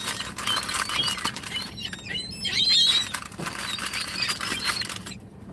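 Seagulls close by: a dense patter of flapping and tapping clicks, with short high squeaky calls scattered through.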